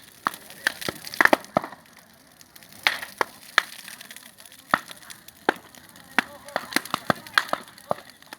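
Wood bonfire crackling, with irregular sharp pops and snaps of burning wood.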